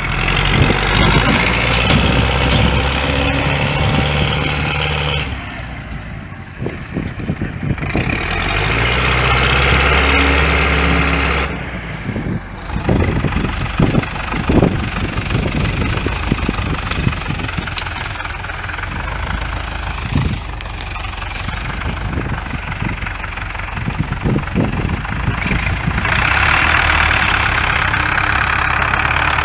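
Tractor engine revving hard in three long bursts and dropping back to a lower run between them, with a run of clunks in a lull, as the tractor tries to pull itself out of deep mud it has sunk into up to the frame.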